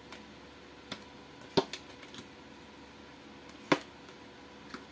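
Tarot cards being drawn and laid out: a few sharp, short taps and clicks spread over several seconds, the loudest about one and a half and three and a half seconds in, over faint room tone.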